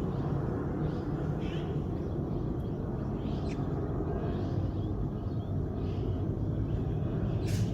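Several short, faint bird chirps scattered over a steady low background rumble, with a sharper chirp near the end.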